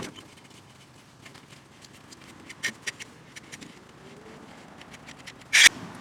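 Tools and metal parts being handled during repair work: a sharp click at the start, a few light taps around the middle, and a louder short clatter near the end.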